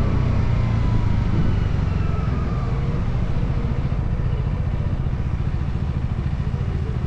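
Motorcycle engine running with a steady, rapid low pulsing, and a faint whine that slides slowly down in pitch over the first few seconds as the revs settle.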